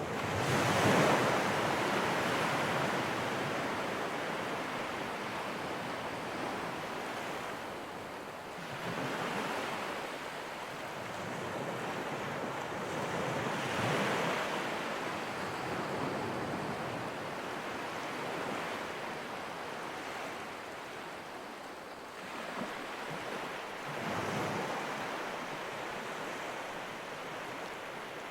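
Ocean waves surging and washing in, rising and falling in slow swells several seconds apart, the strongest about a second in.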